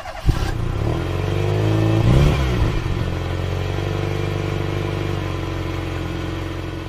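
Car engine starting with a sharp click, revving once about two seconds in, then idling steadily and fading out near the end.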